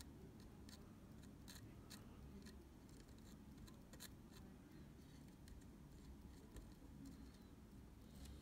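Near silence with faint, sharp clicks and ticks from small hand tools at work on the camera's shutter, scattered irregularly over a low steady room hum.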